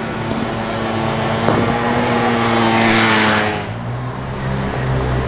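BMW 3 Series saloon engine running at low speed as the car drives slowly past, a steady engine tone with a rush of exhaust and tyre noise that swells about three seconds in as it passes closest.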